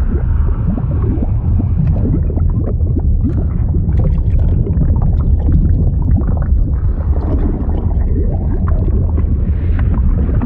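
Bubbling, gurgling liquid sound effect: a steady deep rumble with many small pops and short rising blips, like thick fluid churning and bubbling.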